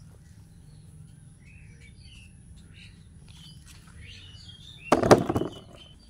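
Birds chirping in short, scattered calls over a low steady background rumble, with a loud, brief scuffing noise about five seconds in.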